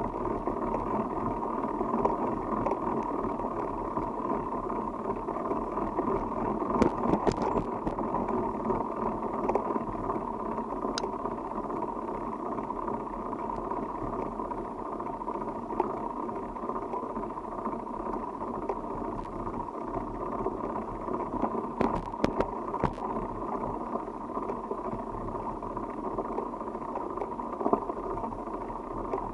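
Steady rushing noise of a bicycle being ridden, with wind on the microphone and tyres rolling. There are a few sharp clicks or rattles about seven seconds in, around eleven seconds, and twice around twenty-two seconds.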